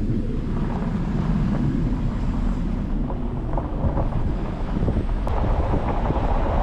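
Jeep Wrangler driving on a rough unpaved forest road: steady low rumble of engine and tyres, with wind buffeting the microphone.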